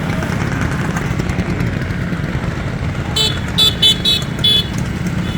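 Motorcycle engines running with a steady low rumble. About three seconds in, a quick run of about five short, high-pitched horn toots.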